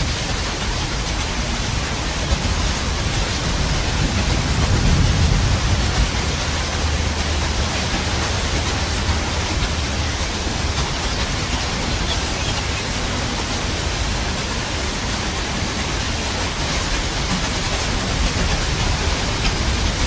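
Steady, dense rainfall hiss, with a low rumble of thunder swelling and fading about five seconds in.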